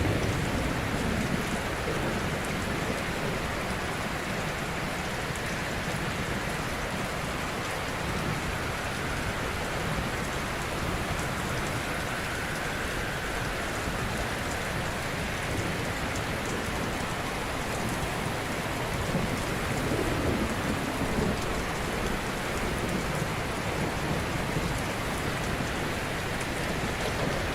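Ocean surf washing continuously onto a shore, a steady hiss of breaking waves with a low rumble that swells slightly about a second in and again around two-thirds of the way through.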